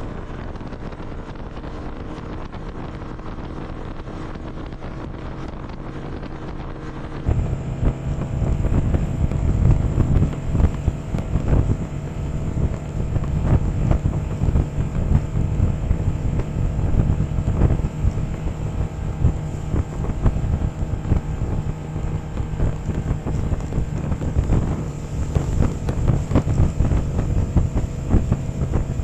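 Snowmobile engine running steadily while riding, with wind buffeting the microphone; about seven seconds in it becomes louder and rougher.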